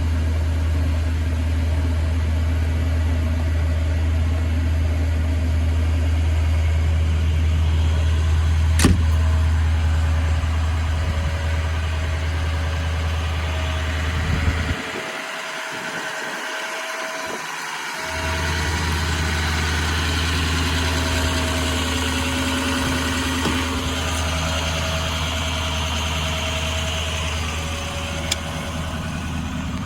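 Ford 6.0L Power Stroke V8 turbo-diesel idling with a steady low drone. The drone drops out for about three seconds midway, then comes back. A single sharp click sounds about nine seconds in.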